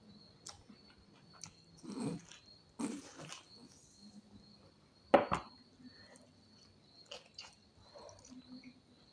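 Close-up eating sounds of a person eating pork ribs curry: chewing and wet mouth noises with small scattered clicks, and one sharper knock about five seconds in. A faint steady high whine sits underneath.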